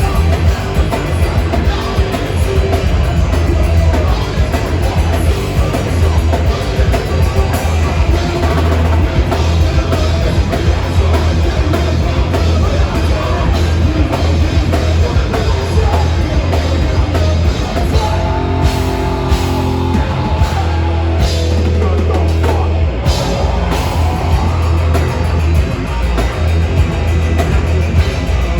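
A heavy metal band playing live at full volume: distorted guitars, heavy bass and pounding drums, with a brief break of held chords about two-thirds of the way through.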